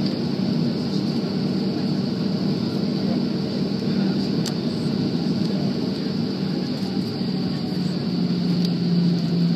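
Jet airliner cabin noise before takeoff: the engines and cabin air system making a steady drone with a faint high whine. Near the end the low drone settles onto one steadier pitch.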